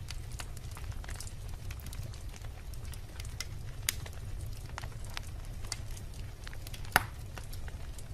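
Wood fire in a fireplace burning with a steady low rumble and scattered crackles of the logs. One loud sharp pop comes about seven seconds in.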